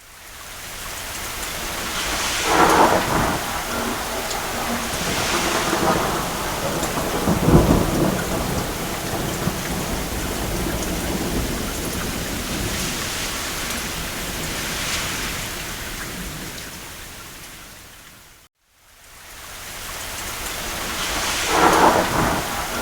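Steady rain on a cabin roof with several rolls of distant thunder, the deepest rumble about a third of the way in and another near the end. About three-quarters of the way through, the sound fades out to a moment of silence and then fades back in.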